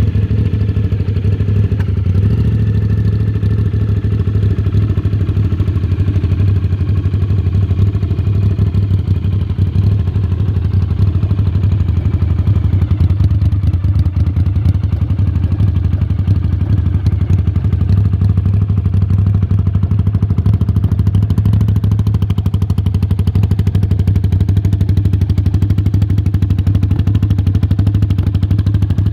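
Honda CX500's liquid-cooled V-twin idling steadily through a stainless steel 2-into-2 exhaust, with a low, even exhaust note.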